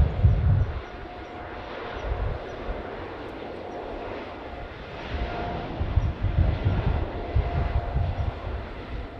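Jet airliner's engines: a steady whine over a low rumble that fades about a second in and swells again in the second half.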